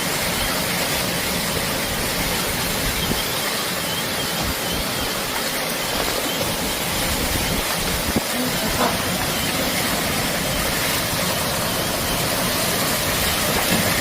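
Steady, loud rushing noise of a severe storm: strong wind and heavy rain.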